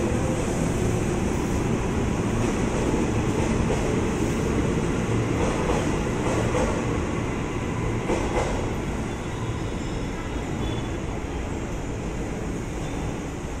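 KRL Commuter Line electric commuter train running past along the platform as it pulls out, a steady rumble of wheels on rail. There is some clatter in the middle, and the sound eases off in the last few seconds as the last car draws away.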